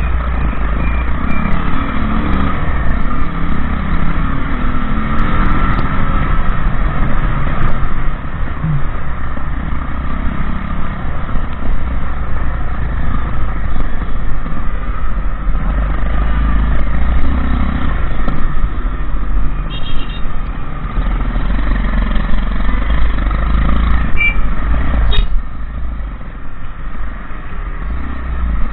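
Motorbike on the move, its engine running steadily under a heavy low rumble of wind buffeting the microphone. Near the end, a sharp click comes just before the sound drops somewhat in level.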